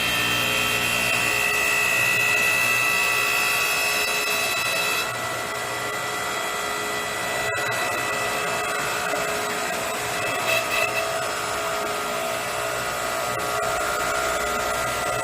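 Electric hydraulic log splitter's 2300 W motor and pump running with a steady whine as the ram cycles empty in its slow, high-force setting, a warm-up stroke with no log. The whine changes pitch about five seconds in.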